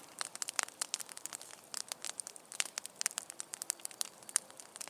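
Campfire crackling, with irregular sharp pops.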